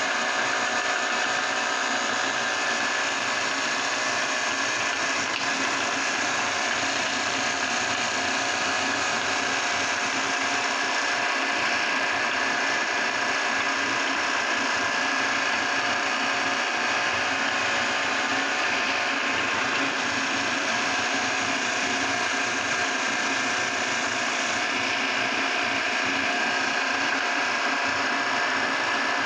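Electric meat grinder running steadily, grinding jelly candies.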